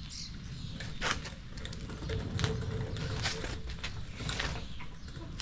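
A scattered series of short clicks and light knocks, as from parts and tools being handled during work on a car, over a low background rumble.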